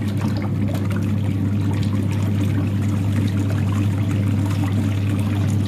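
Roch 7.0 kg manual washing machine's wash tub running with a steady low motor hum. The pulsator churns and sloshes the water to mix the detergent and bleach before the clothes go in.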